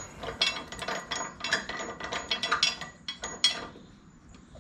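Hand ratchet wrench clicking in quick strokes as a mower blade bolt is run down, stopping about three and a half seconds in.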